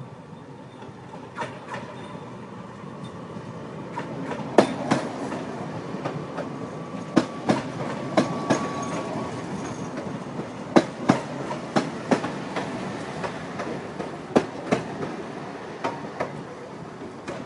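Train running on its rails: a steady rumble with wheels clacking over the rail joints, mostly in pairs of sharp clicks, recurring every few seconds. The rumble grows louder about four seconds in.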